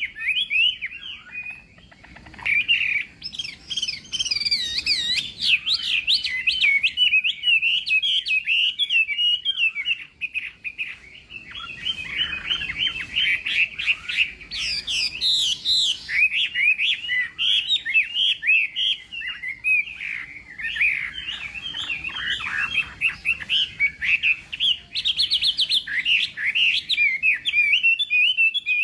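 Chinese hwamei singing a long, rapid, varied song of whistled notes and trills, with a short pause about ten seconds in.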